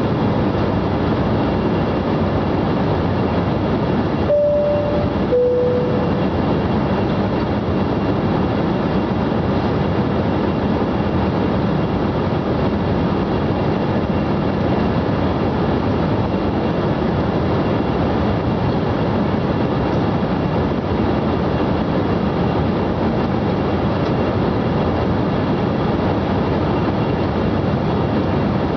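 Steady airliner cabin noise in flight. About four seconds in, a two-note cabin chime sounds: a higher note, then a lower one about a second later.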